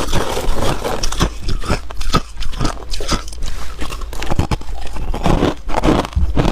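Ice being bitten and chewed close to the microphone: a run of loud, irregular crunches and cracks as it breaks between the teeth.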